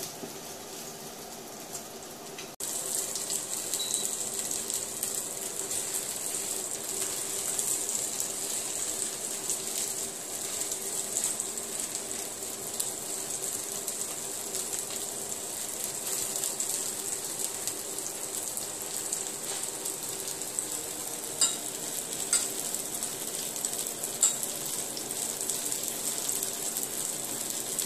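Radish-and-pork fritter batter frying in hot oil in a nonstick wok: a steady crackling sizzle, louder from about two and a half seconds in. There are a few sharp clicks near the end.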